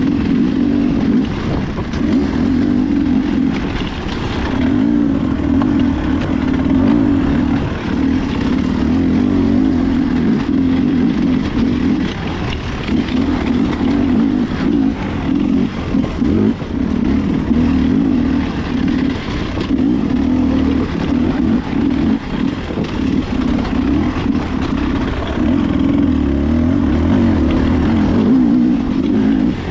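Beta RR enduro motorcycle engine running hard as it is ridden off-road, the throttle opening and closing, with brief dips in the engine note every few seconds.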